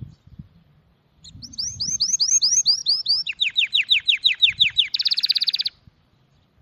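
A songbird sings one song phrase. It starts with a quick run of repeated down-slurred notes, drops to a lower run of similar notes, and ends in a short, fast buzzy trill.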